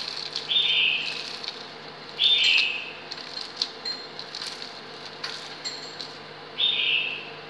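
A bird chirping three times in short, high calls, the loudest sound, over the faint crackle of leaves being crumpled by hand and a steady low hum from the induction cooker.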